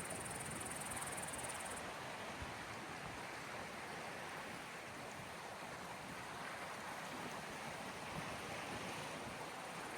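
Small sea waves washing on the shore, a steady, even wash of water. A thin high hiss stops about two seconds in.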